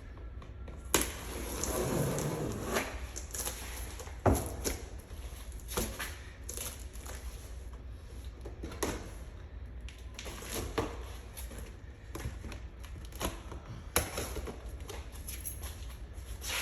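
Irregular clicks, knocks and rustling of gear and packaging being handled, with a brief rustling swell about two seconds in, over a steady low hum.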